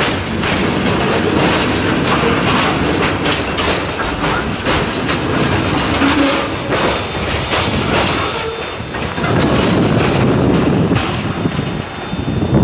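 Freight train of covered hopper cars rolling past: a steady rumble of steel wheels on rail with a rapid clatter of clicks as the wheels cross rail joints.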